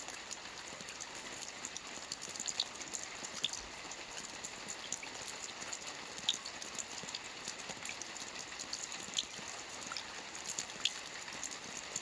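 Soft rain falling on a roof: a steady patter with scattered louder single drops ticking through it.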